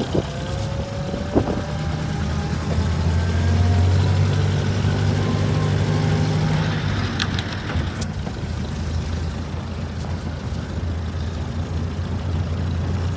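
Willys F-head four-cylinder engine of a 1962 Jeep M170 running under way at low speed. It grows louder a few seconds in as it pulls, then eases back. A few sharp clicks come through near the start and about halfway.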